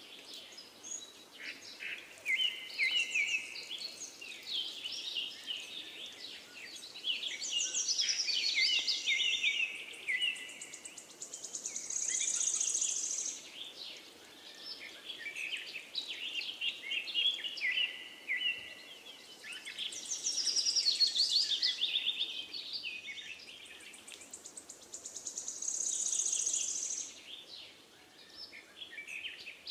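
Small birds singing and chirping: phrases of quick high trills and chirps that swell and fade every few seconds.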